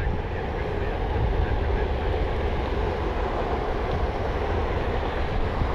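Jet airliner engines making a steady rumble with a faint whine.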